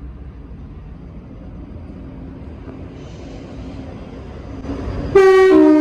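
Electric passenger train running with a low steady rumble, then about five seconds in its horn sounds loudly, a high note stepping down to a lower note: a two-tone warning blast.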